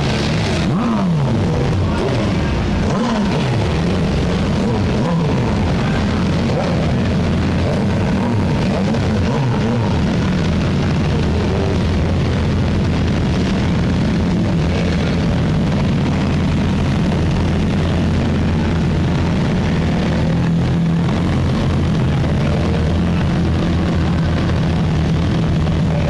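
Car engine revving repeatedly, its pitch rising and falling several times over the first ten seconds or so, then settling into a steady engine drone.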